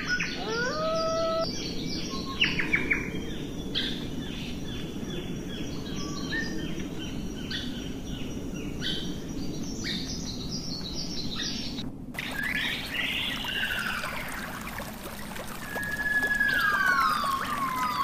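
Birds chirping in quick repeated short notes over a steady low rushing noise. About two-thirds of the way through the sound cuts abruptly to whistled calls that slide down in pitch, ending in one long falling whistle.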